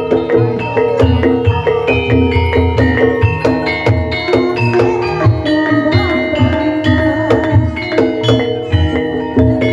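Javanese gamelan music for ebeg: struck bronze metallophones and gongs ringing in a continuous interlocking rhythm over a deep hand drum.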